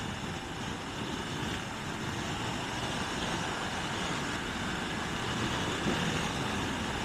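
Motorcycle underway at road speed: a steady mix of engine and wind noise, holding even throughout.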